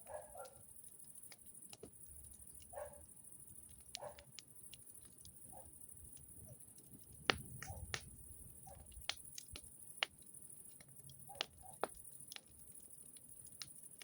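Wood fire crackling, with irregular sharp pops and snaps scattered through, the loudest about seven seconds in.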